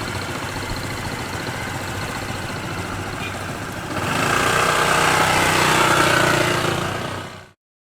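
Scooter engine running at idle, growing louder about four seconds in, then cutting off suddenly near the end.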